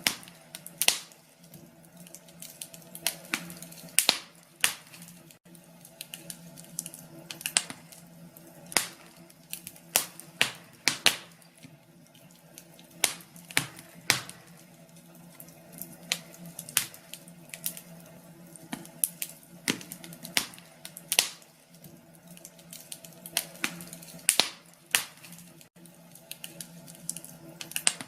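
Wood fire crackling in a fireplace: irregular sharp pops and snaps, one or two loud ones a second among many smaller ticks, over a faint steady low hum.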